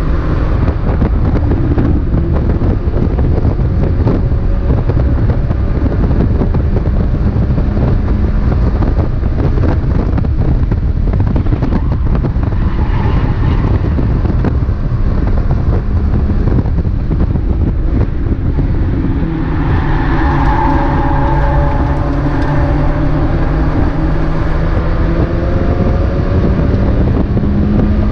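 Mazda MX-5 race car at racing speed, its engine running under load beneath heavy wind and road noise. About two-thirds of the way through, the engine note rises and falls.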